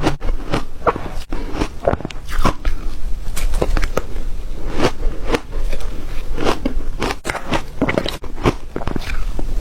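Close-up crunching of ice being bitten and chewed, with many sharp cracks, several a second, throughout.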